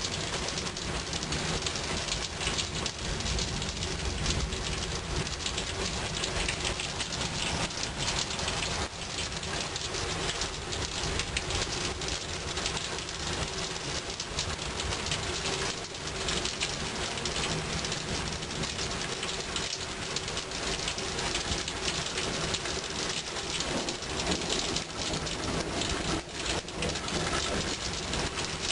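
Rain falling steadily in a thunderstorm, an even hiss of rain on surfaces with a low rumble underneath.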